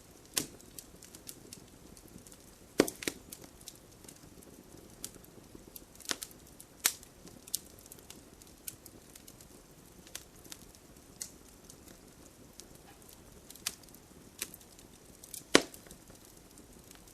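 Wood campfire crackling: scattered sharp pops and snaps over a faint low hiss of burning. The loudest pops come about 3 s in, around 6 to 7 s in, and near the end.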